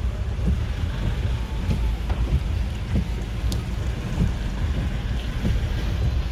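Storm wind buffeting the microphone: a loud, uneven low rumble that keeps rising and falling.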